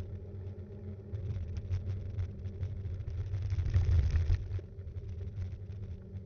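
Riding noise picked up by an action camera mounted on a Btwin Rockrider 5.1 mountain bike: a low rumble of wind and tyres on the road, with many small rattling clicks from the bike shaking over the surface, loudest about four seconds in.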